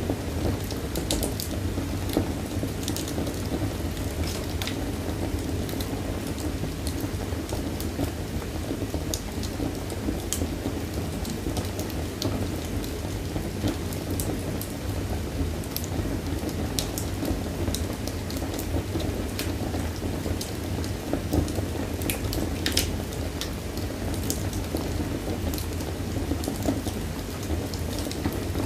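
Fire burning in a fireplace, crackling: a steady low rumble of flames with scattered sharp pops and snaps, a cluster of them about two thirds of the way through.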